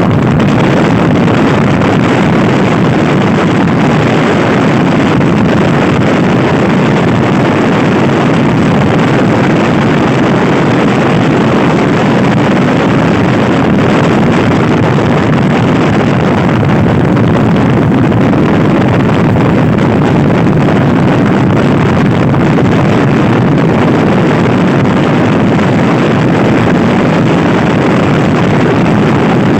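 Loud, steady wind noise buffeting the microphone of a Honda Scoopy-i scooter riding at speed, with no letup.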